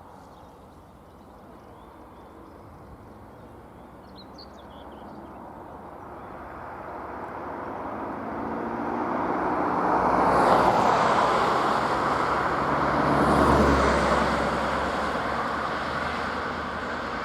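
A train approaching and passing: the rumble and rush build over several seconds, are loudest about ten and again about thirteen seconds in, then ease off as it draws away.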